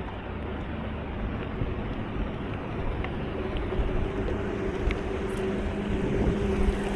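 A steady low motor hum that grows slowly louder, over a wash of wind or water noise.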